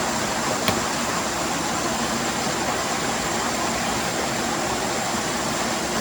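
Steady, even rush of water, like heavy rain or a stream, with one sharp click about two-thirds of a second in.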